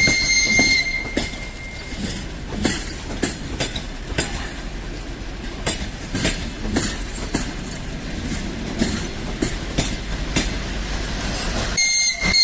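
TEP70 diesel locomotive's whistle sounding a high, steady note at the start and again briefly near the end, with the train's wheels clicking over rail joints in between.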